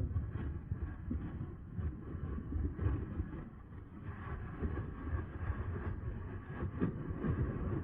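Steady low rumble and rattle of a Bafang BBSHD mid-drive electric bike being ridden, picked up by a camera mounted on the bike, with scattered short knocks.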